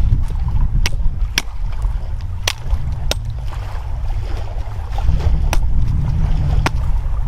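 Wind buffeting the microphone in a heavy low rumble, with about six sharp, irregularly spaced clicks or snaps over it.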